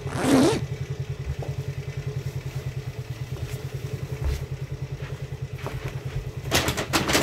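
Motor scooter engine idling with a steady, rapid low putter. There is a brief loud sound at the very start, and footsteps and clatter near the end.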